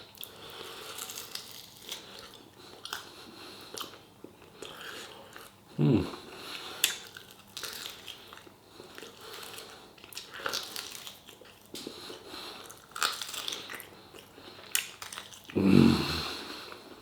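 Close-up chewing and biting as a man eats a spicy pork rib off the bone, with wet smacking and clicking mouth sounds throughout. Two louder, lower sounds break in, one about six seconds in and one near the end.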